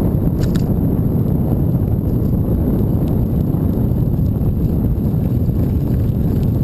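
Steady low wind rumble on the microphone of a camera carried on a moving bicycle, with a faint click about half a second in.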